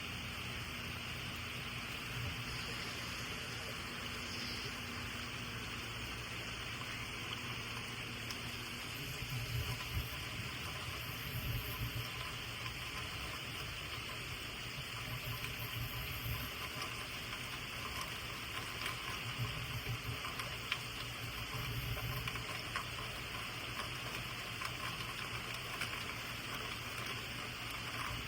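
Heavy hurricane rain pouring steadily, a dense even hiss. Low gusty rumbles come and go from about nine seconds in.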